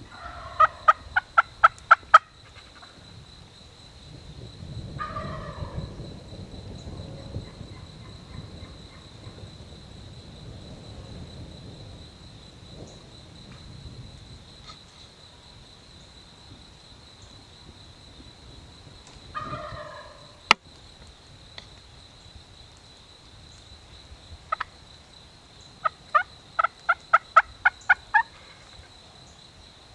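Wild turkeys calling: two loud runs of about eight evenly spaced notes, one at the start and one near the end. Two shorter, fainter calls come in between, with a single sharp click about two-thirds of the way through.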